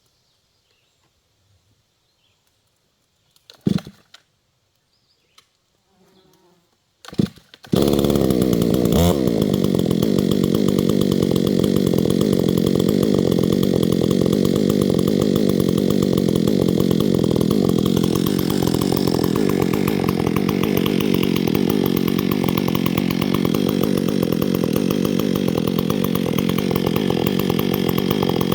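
Two brief sharp sounds, then a chainsaw starts about eight seconds in and runs steadily.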